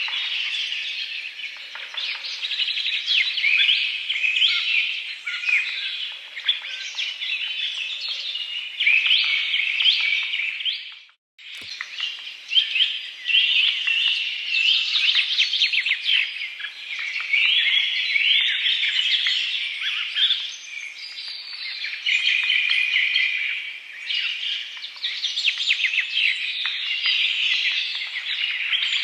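Many birds chirping and calling at once in a dense, continuous chorus of short high notes. The sound cuts out for a moment about eleven seconds in, then picks up again.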